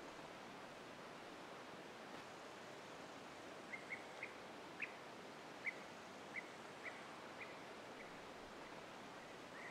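A bird calling a quick series of short, sharp chirps, about ten notes over four seconds in the middle of the stretch, over a steady background hiss of the outdoors.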